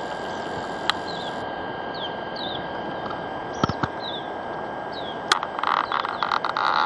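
Steady outdoor background hiss with a thin steady whistle-like tone, and a bird's short falling chirps repeating every second or so. A few sharp clicks stand out, and near the end comes about a second of rapid rattling clicks.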